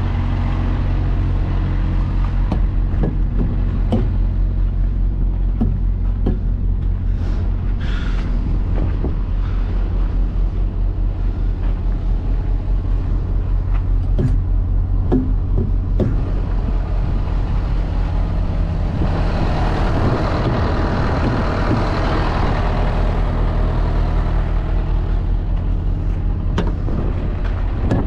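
Diesel engine of a road-train prime mover idling steadily, with scattered clicks and knocks and a rushing noise for several seconds about two-thirds of the way through.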